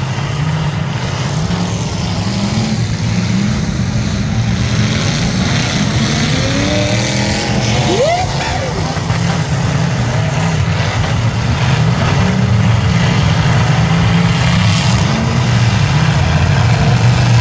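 Engines of several stock demolition derby cars running and revving hard together. It makes a dense, continuous rumble whose pitch rises and falls as the drivers work the throttle.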